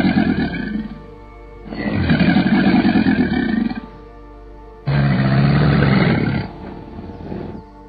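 American alligator bellowing: a series of deep, rough bellows, each about two seconds long with about a second's pause between them, over steady background music.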